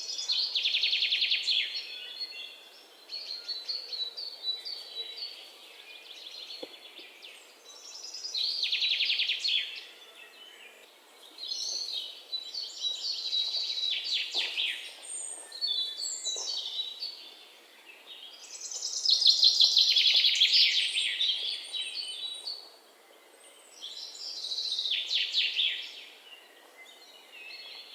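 A songbird singing high-pitched trilling song phrases, each a second or two long, repeated about six times with pauses of a few seconds between them.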